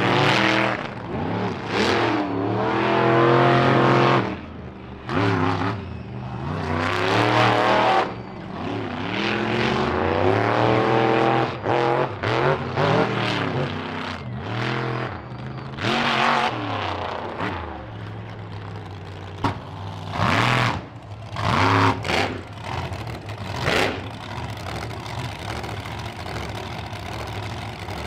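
Monster truck engines revving in repeated bursts, pitch rising and falling, settling to a lower steady running sound over the last few seconds.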